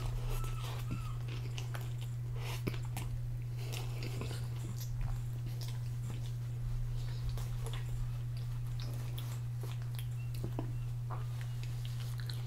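Close mouth sounds of a person chewing a full mouthful of a stuffed wrap: scattered small wet clicks and crunches. A paper napkin rustles in the second half. A steady low hum runs underneath.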